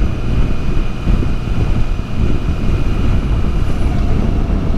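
Motorcycle at highway speed: heavy wind noise buffeting the microphone over the steady drone of the engine and road.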